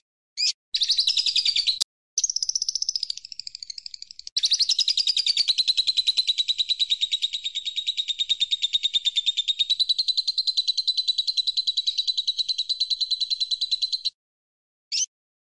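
Recorded songbird song: a few short, sharp chirps, then long, very fast high trills, the last running steadily for about ten seconds before stopping abruptly.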